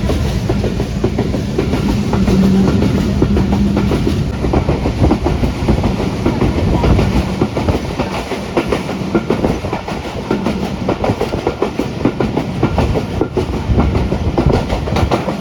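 Passenger train running along the track: wheels clacking over rail joints in a dense, continuous rhythm over a steady rumble.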